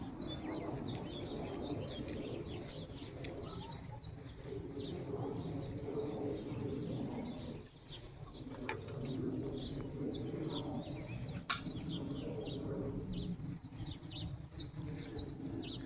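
Birds chirping, many short high calls repeating, over a lower steady background sound. A single sharp click comes about eleven seconds in.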